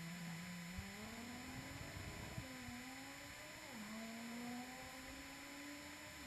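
A small motor whining, its pitch slowly rising and then dropping back twice, with a couple of faint clicks.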